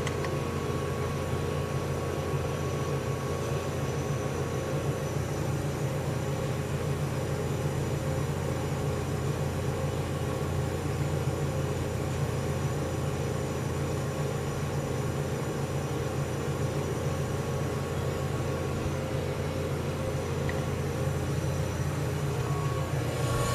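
General Electric CJ-1-C16 refrigerator compressor running steadily with an even low hum, under test while being charged with refrigerant.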